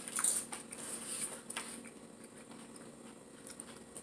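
Close-up chewing of cheese-loaded nacho chips: a few short crunches and wet mouth clicks in the first second and a half, then quieter chewing.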